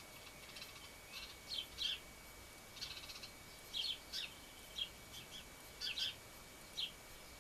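Small garden birds chirping: short high calls come every half second or so, with a couple of rapid, buzzy trills among them. A faint steady high tone runs underneath.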